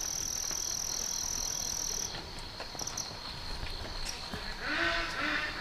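An insect trills in one steady high-pitched tone for about two seconds, then gives a few short chirps, over a fainter unbroken insect drone. Near the end comes a brief rustle with a couple of short low calls.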